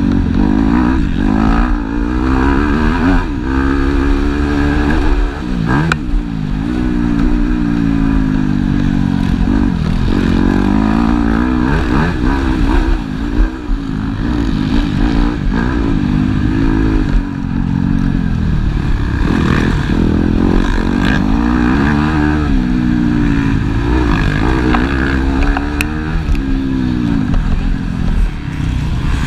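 Several motocross bikes racing, their engines revving up and falling back over and over as the riders accelerate and shift, with a few sharp clicks among them.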